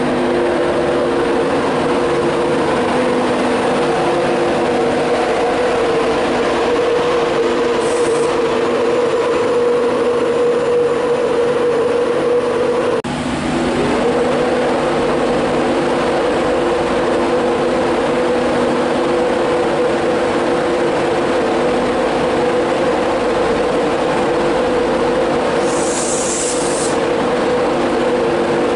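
InterCity 225 train with its Class 91 electric locomotive at the platform, giving a loud, steady hum of several tones. Two short hisses come about 8 s and 26 s in, and the hum dips briefly around 13 s.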